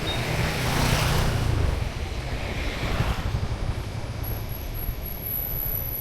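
Street traffic noise: a passing vehicle's rumble fades out about two seconds in, leaving a steady traffic hum, with a thin high-pitched whine starting around four seconds in.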